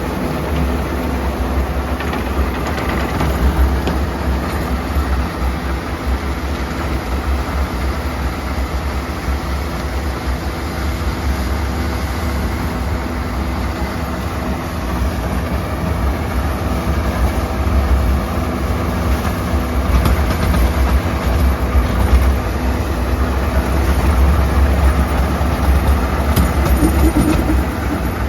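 Swaraj 969 FE tractor's diesel engine running steadily at low creeper speed while it pulls a rotavator, a deep continuous rumble that grows a little louder in the second half.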